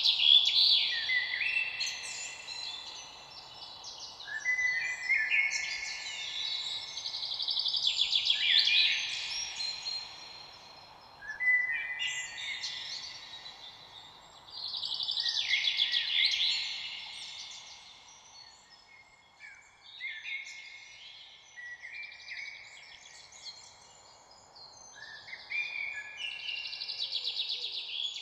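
Songbirds singing, with a phrase of rapid warbling, twittering song every three to four seconds over a steady background hiss.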